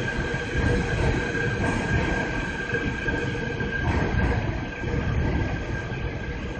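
A vehicle running: a steady low rumble with a faint steady whine over it.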